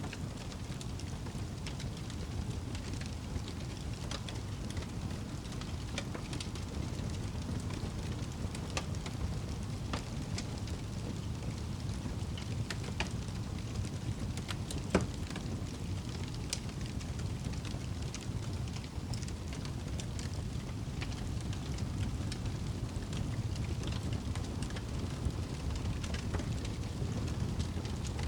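Campfire crackling, with scattered sharp pops and one louder pop about halfway through, over a steady low rumble.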